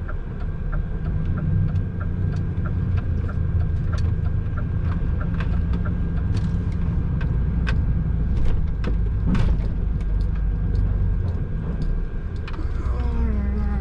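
Semi-trailer truck's diesel engine running at low speed, heard inside the cab, with evenly spaced ticking, a couple of clicks a second, that fades after several seconds, and scattered sharp knocks and rattles.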